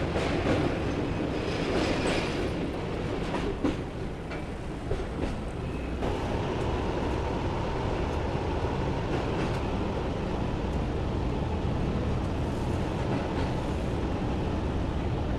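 Moving passenger train heard from on board: a steady rumble of the wheels on the track, with a few sharp clicks about four seconds in.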